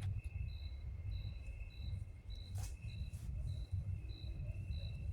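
Night insects, crickets, calling: a steady high trill with a short higher chirp repeating about two to three times a second over it. A low rumble runs underneath, and there is a single sharp click about halfway through.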